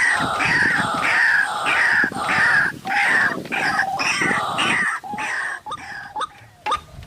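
White-breasted waterhen (ruak-ruak) calling: a fast run of loud, harsh repeated notes that, about five seconds in, gives way to quieter, short rising notes a few times a second.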